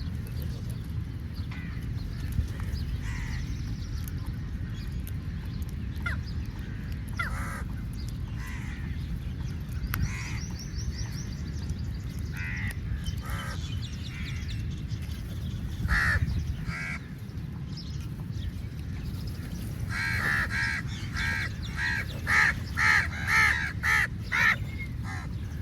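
Crows cawing: scattered calls at first, then a quick run of about eight loud caws near the end, over a steady low background rumble.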